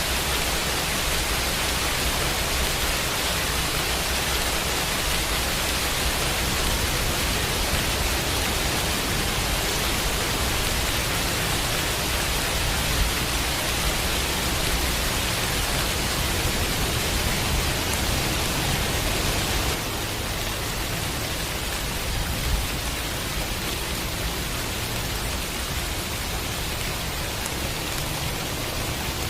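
Steady rain hiss mixed with a white-noise bed, even and unbroken, dropping slightly in level about two-thirds of the way through.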